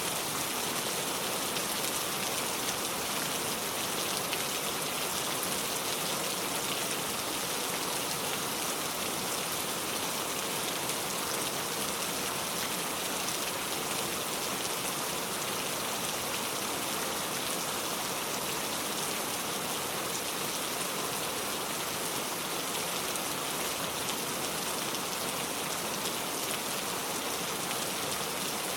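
Steady heavy rain falling, a dense even hiss of drops with no pauses or changes.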